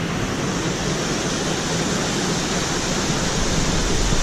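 Waterfall water rushing in a steady, even hiss with no let-up.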